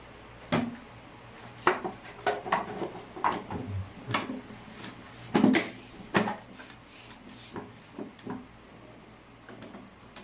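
Irregular clinks and knocks of hard parts and tools being handled during plumbing work, a dozen or so sharp hits that are busiest in the middle and thin out near the end.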